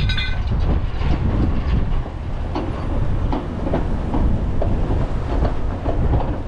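Strong wind buffeting the microphone, with irregular metal clanks and rattles as tow rigging is broken down. A short ringing clank comes right at the start.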